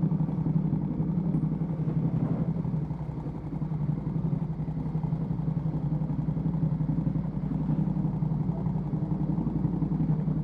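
Ducati Panigale V2S V-twin with a Termignoni exhaust running at steady low revs, dipping slightly about three seconds in.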